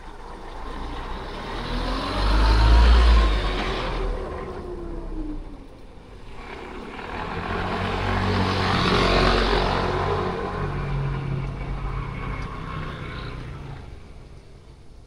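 Two motor vehicles drive past one after the other. The first is loudest about three seconds in and the second around nine seconds in, with the engine pitch falling as each goes by.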